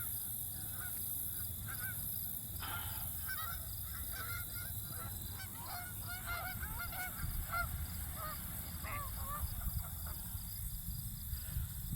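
Ducklings peeping: many short, high chirps, sparse at first and coming thick and fast from about two and a half seconds in, thinning out near the end, over a low background rumble.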